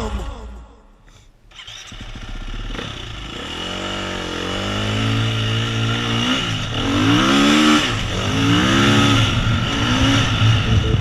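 Dirt bike engine revving as the bike rides the trail. Its pitch climbs and drops several times as the rider accelerates and backs off, with a steady hiss of wind and trail noise underneath.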